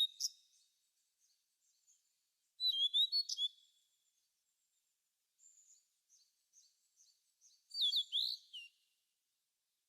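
Birds chirping and singing in short bursts of quick, high notes separated by quiet gaps. There are three louder phrases, about a second long each, the last made of sliding notes, with fainter chirps in between.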